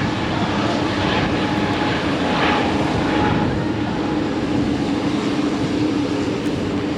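Jet airliner engines, a steady loud rush of engine noise with a held low hum running under it.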